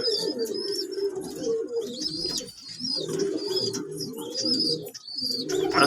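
Pigeon squabs giving repeated thin, high squeaks as they beg and are fed from an adult pigeon's crop, over low pigeon cooing.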